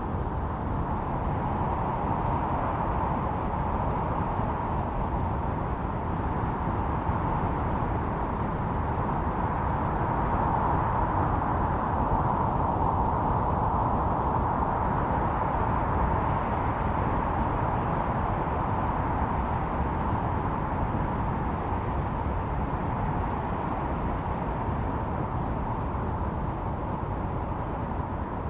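Snowstorm wind blowing steadily, a hollow howl centred on one pitch that swells gently and eases off again, over a low rumble.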